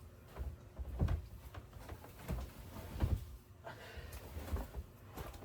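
Irregular knocks and thumps, several in a row about half a second to a second apart, of someone moving about and handling things in a small room.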